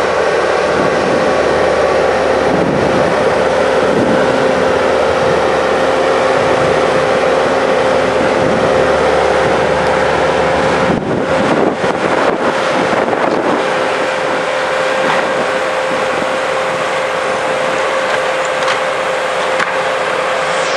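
A steady engine running, with a constant mid-pitched whine over a broad rumble, and wind on the microphone.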